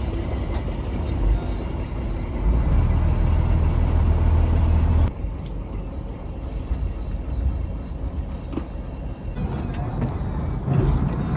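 Fishing trawler's engine running, a steady low drone; it drops suddenly in level about five seconds in and comes back up near the end.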